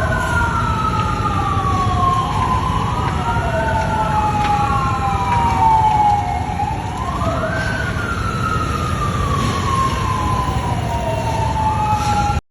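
Two fire engine sirens wailing out of step with each other, each rising quickly and then falling slowly every three to four seconds, over a steady low rumble.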